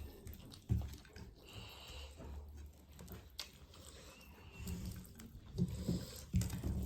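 Close-up chewing and mouth smacking of someone eating rice and mutton curry, with a few dull low thumps.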